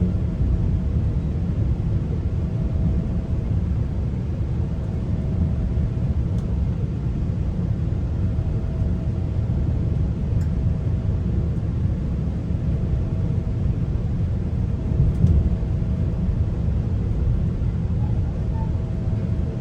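Steady low rumble of a GO Transit passenger train running between stations, as heard from inside the coach, with a faint hum that comes and goes and a few light clicks.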